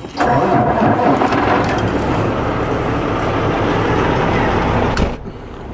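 Loud, steady rushing noise of a running vehicle, which cuts off suddenly with a click about five seconds in.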